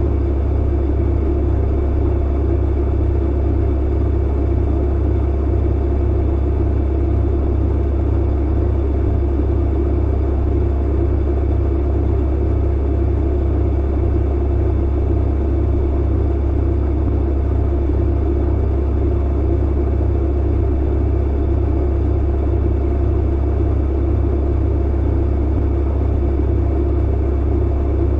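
Clothes dryer running with a steady, unchanging low hum and rumble.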